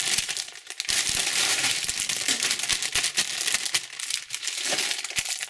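Plastic candy wrappers crinkling and rustling as they are handled, with a dense run of small crackles throughout.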